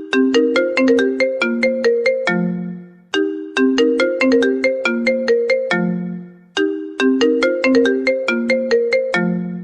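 iPhone ringtone playing: a short melody of quick notes, each dying away fast, ending on a lower held note. The phrase repeats about every three and a half seconds.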